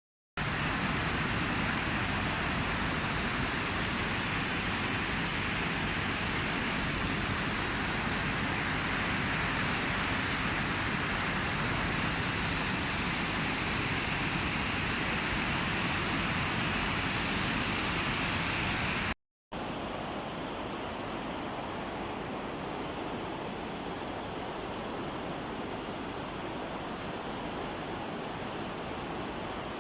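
Waterfall water rushing as a steady, even noise. It cuts out briefly about 19 seconds in, then carries on a little quieter.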